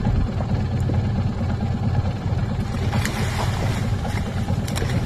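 A coastal fishing boat's inboard engine running steadily with a low, pulsing rumble. About three seconds in, a hiss and a few sharp clicks join it.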